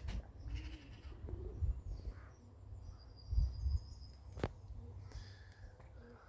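Outdoor ambience: wind bumps the phone's microphone in low gusts under faint, distant bird calls. There is a single sharp click about four and a half seconds in.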